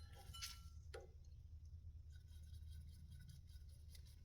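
Near silence: steady low room hum with a couple of faint light clicks in the first second.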